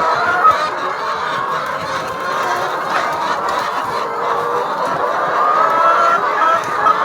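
A flock of chickens clucking, many overlapping calls at once in a steady chorus.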